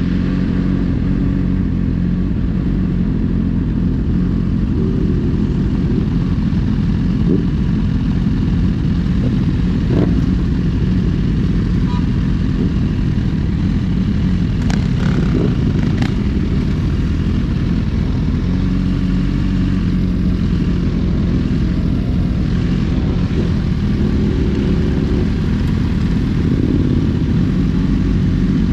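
Superbike engine running steadily while riding, with small rises and falls in pitch. A few short sharp ticks come through about ten and fifteen seconds in.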